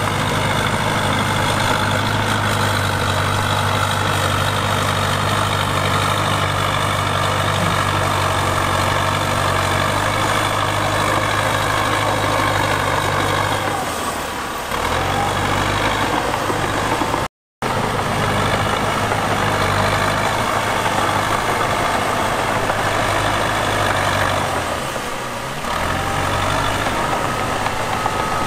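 Diesel engine of heavy earthmoving equipment running steadily. Its note dips briefly twice, and the sound cuts out for a split second about halfway through.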